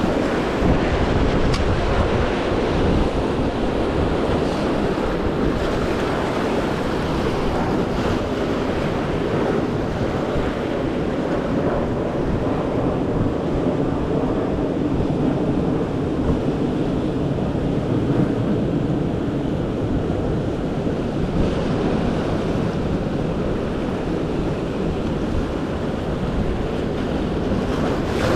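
Ocean surf washing in and wind buffeting the microphone: a steady rushing noise with a low rumble.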